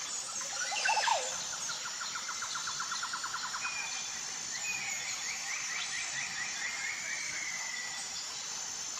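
Birds singing: a short call about a second in, then rapid trills of about ten notes a second, and a longer trilled phrase that falls slightly in pitch. A steady high insect buzz runs underneath.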